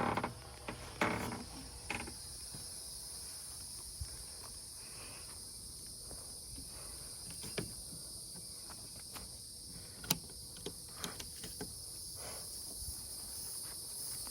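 A steady chorus of crickets trilling, with scattered sharp knocks and clicks, the loudest right at the start, about a second in and about ten seconds in.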